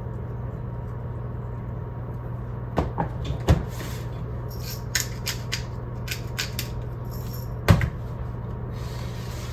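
Kitchen handling sounds over a steady low hum: a scatter of light clicks and taps, with two louder knocks, one about three and a half seconds in and one near the end, like a plate or cupboard being knocked.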